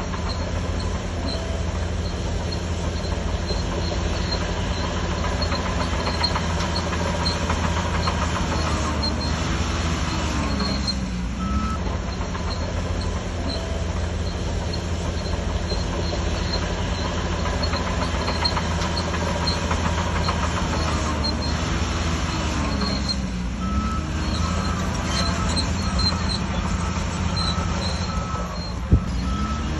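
Shantui DH17C3 crawler bulldozer working: the diesel engine drones steadily under load, with thin squealing from the steel tracks. Three times a lower pitch dips and climbs back, and there is a single sharp knock near the end.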